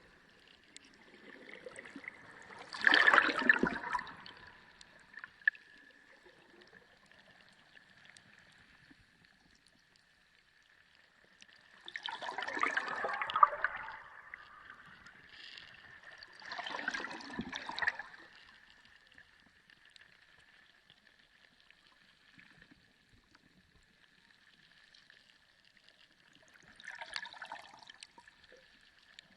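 Underwater ocean ambience: water noise that swells in four rushes, a few seconds to ten seconds apart, with quieter stretches between them. A faint steady high tone runs under it.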